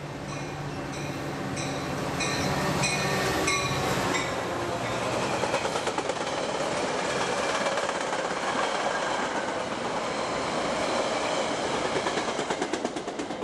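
Train passing close by. A bell clangs at an even pace, roughly twice a second, over a low engine hum for the first few seconds. Then the cars roll past in a loud steady rush, with runs of quick wheel clicks over the rail joints.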